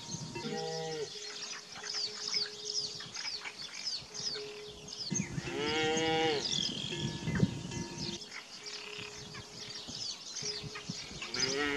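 Cattle mooing: a short call near the start, a longer call that rises and falls about halfway through, and another starting near the end, over many small birds chirping.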